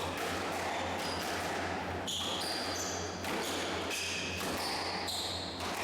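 Squash rally: the ball is struck and knocks off the walls again and again. From about two seconds in, short high squeaks from shoes on the court floor join in, over a steady low hum.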